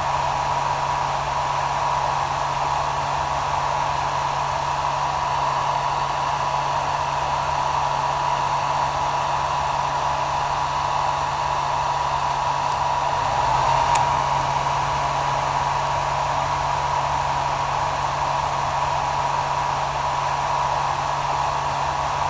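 Hair dryer running steadily: an even rushing hiss with a steady whine and a low motor hum. A slight swell and a faint click come about two-thirds of the way through.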